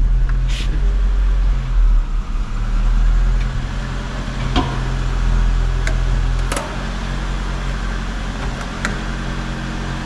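SEAT Toledo mk1 1.6 carbureted four-cylinder engine idling steadily shortly after starting, its idle now holding on its own. A few short sharp clicks and knocks sound over it.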